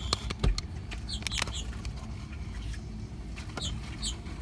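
Small birds giving short, high chirps several times, over the low steady running of an idling car engine, with a few sharp clicks early on.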